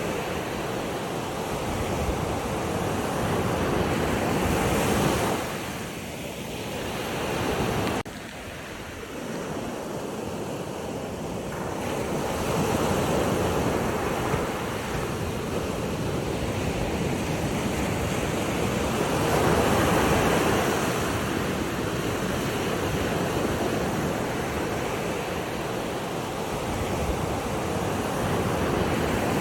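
Waves surging and easing in slow swells, with wind noise on the microphone; the sound drops off abruptly about eight seconds in, then builds again.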